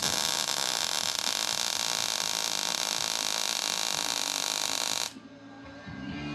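MIG welder arc running a weld: a steady crackling hiss that cuts off suddenly about five seconds in.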